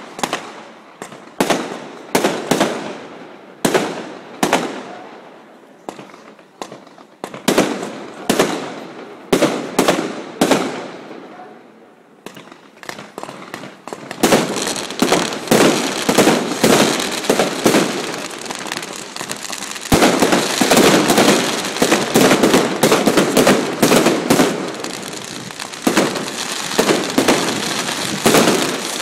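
Fireworks display: aerial shells bursting with separate sharp bangs, each trailing off, through the first half. About halfway in it turns into a dense, rapid barrage of bangs and crackle that thickens further a few seconds later.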